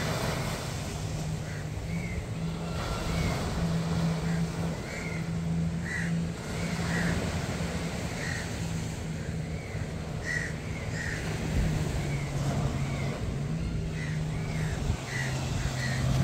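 Car driving, heard from inside the cabin: a steady low engine and road hum that shifts pitch now and then, with faint short chirps over it.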